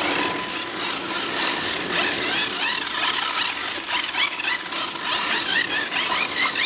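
Tyres of 1/8-scale electric RC drift cars squealing on pavement while drifting, in many short chirps from about two seconds in.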